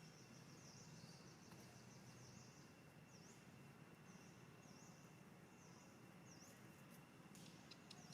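Near silence with faint, high, short chirps repeating about once a second, typical of a small bird calling, over a low steady hum. A few soft clicks come near the end.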